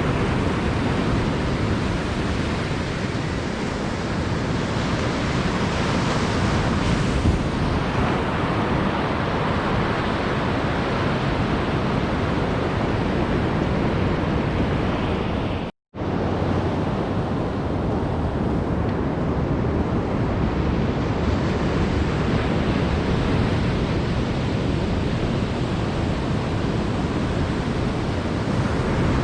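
Ocean surf on a beach: a steady, even rush of waves. The sound drops out completely for a split second about halfway through.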